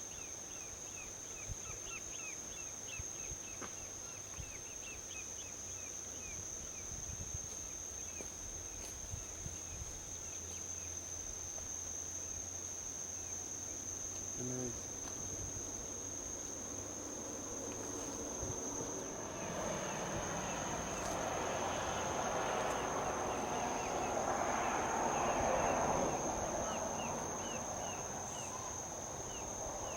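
Insects keep up a steady high-pitched drone, with a run of quick chirps in the first few seconds. From about two-thirds of the way in, a vehicle passing on a highway swells up, is loudest near the end, then fades.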